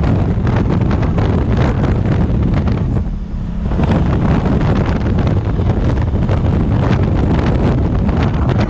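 Wind buffeting the microphone of a Honda African Twin motorcycle riding at speed, covering most of the engine sound. The wind eases briefly about three seconds in, and a low steady engine tone shows through.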